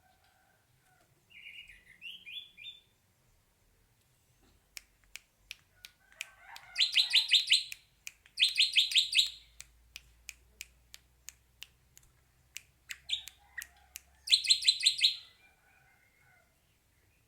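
Hair-crested drongo calling: bursts of fast, ringing repeated notes, three of them loud, with a run of sharp clicks about three a second between them.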